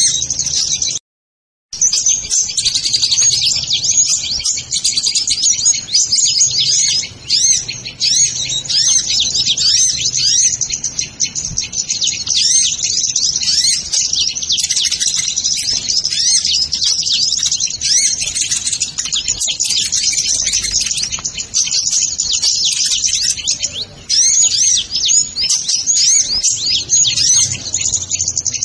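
Sunbirds chirping and twittering nonstop: a dense chorus of quick, high-pitched chirps, typical of the sunbird call used to lure these birds. The sound cuts out completely for a moment about a second in.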